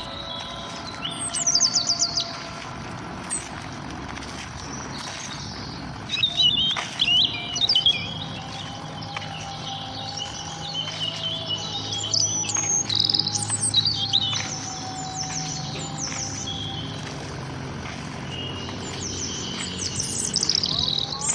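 Morning chorus of several songbirds: bursts of quick, high chirps and trills every few seconds over fainter, steady calls in the background.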